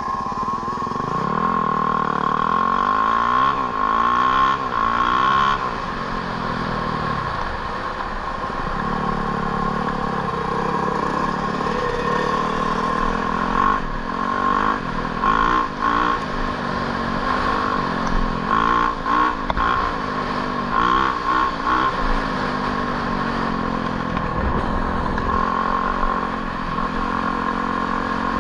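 Motorcycle-type engines revving up and down over and over, more than one at a time, with a steady high whine underneath.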